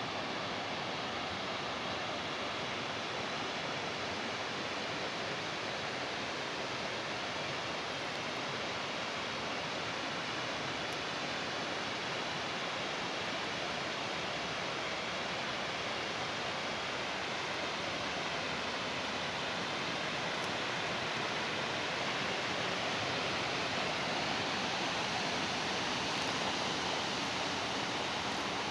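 Flowing water rushing steadily along an old water channel or small stream, growing slightly louder over the last ten seconds or so.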